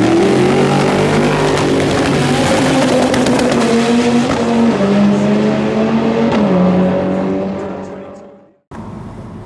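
Car engine revving loudly, held at steady revs that step up and down in pitch, then fading away about eight seconds in.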